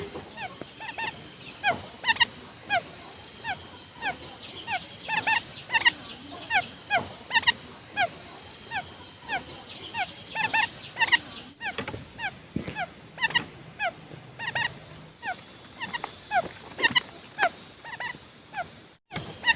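Quail calling: many short, falling chirps, several a second and overlapping, over a faint steady high whine, with two brief dropouts.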